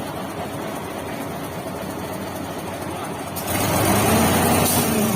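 Heavy vehicle engines running steadily. About three and a half seconds in, a louder vehicle sound with a strong hiss comes in and holds.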